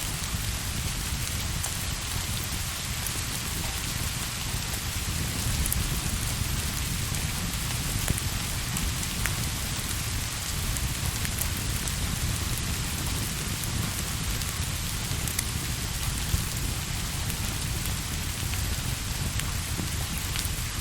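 Steady rain falling and tapping, with a low rumble underneath and a few scattered sharp ticks.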